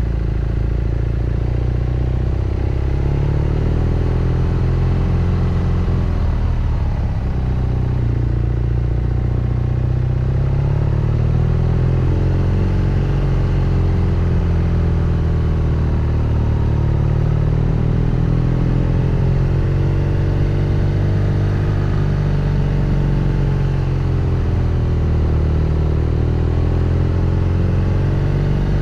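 BMW R nineT Scrambler's boxer-twin engine running under way, with its note rising and falling as the throttle opens and closes through a run of bends. The revs drop sharply about six seconds in, then climb again in several slow swells.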